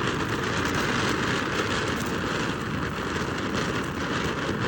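Tiger Head brand Silver Orchid, a late-1970s DOT Class C fountain firework, burning with a steady hissing spray of sparks.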